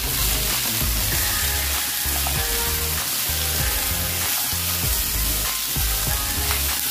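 Diced onion and green capsicum sizzling in oil in a nonstick kadai over a high flame, stirred and tossed continuously with a spatula.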